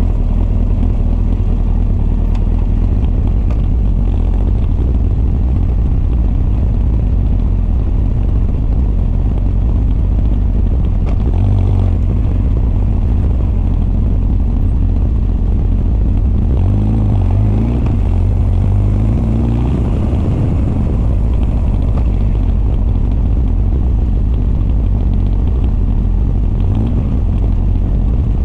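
Honda CB1300 SF's inline-four engine on Keihin FCR41 carburetors and an r's gear Wyvern full exhaust, heard as intake and exhaust while riding. It runs steadily, with the revs changing several times in the middle.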